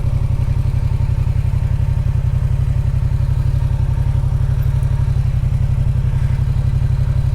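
Motorcycle engine running steadily at a constant speed, a loud, even stream of low firing pulses.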